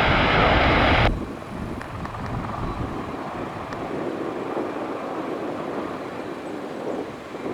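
Aircraft engine noise, loud at first and cut off abruptly about a second in, then a steadier, quieter engine noise.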